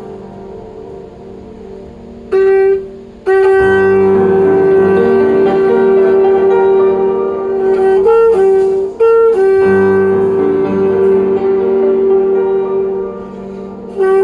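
A saxophone-like horn tone plays sustained notes. After a soft start it holds a loud, steady G and steps briefly up to B-flat twice, over a lower accompanying tone. It plays the 'tune' of the exhaust as G minor.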